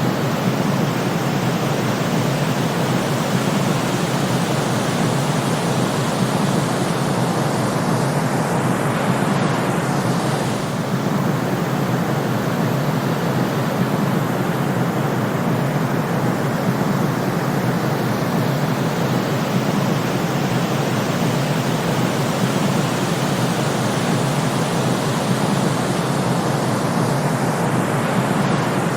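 Continuous white noise for sleep, a steady even hiss-like rush that does not change in level.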